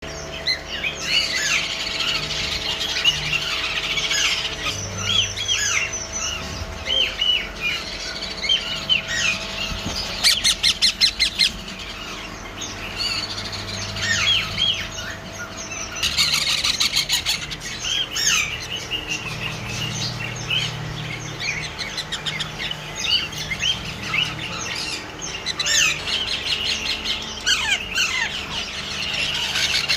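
Many parrot chicks calling at once: a dense chatter of short, high chirps and squawks that bend up and down in pitch. About ten seconds in comes a quick run of rapid, evenly spaced pulses.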